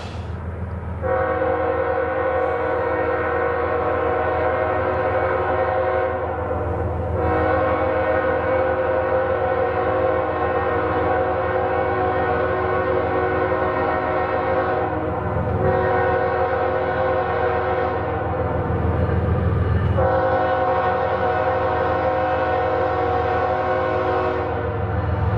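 Diesel locomotive's multi-chime air horn sounding several long blasts with short breaks, over the steady low rumble of the passing train.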